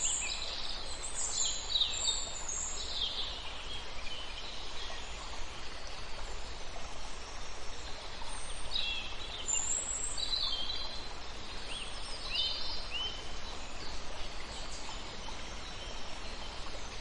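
Birds chirping and calling over a steady background hiss. The calls come in two flurries, one in the first three seconds and one from about eight to thirteen seconds in, with a quieter stretch between.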